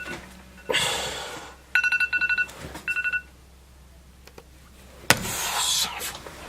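Electronic telephone ringer trilling in short bursts of rapid fixed-pitch pulses, with rustling noise between them and a sharp knock about five seconds in.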